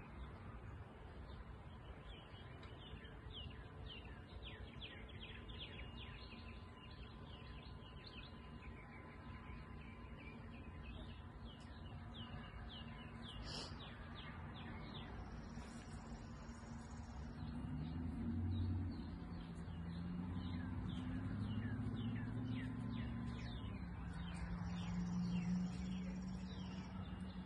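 Songbirds chirping outdoors, a steady run of short, quick chirps. About two-thirds of the way in a low drone rises under them and becomes the loudest sound.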